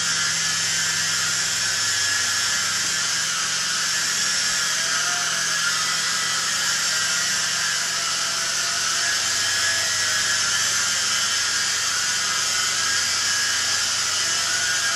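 Venom Ozone coaxial RC helicopter's electric motors and counter-rotating rotor blades whining steadily in flight, a high-pitched drill-like buzz that holds an even pitch and level.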